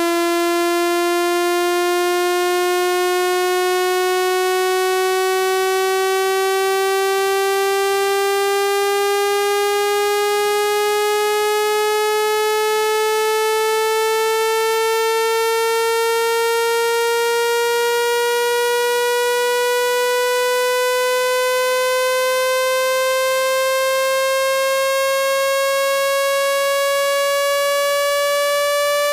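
Electronic water-ejection tone for a phone speaker: one steady, buzzy synthesized tone with many overtones, its pitch gliding slowly and evenly upward. It is made to vibrate trapped water and moisture out of an iPhone's speaker grille.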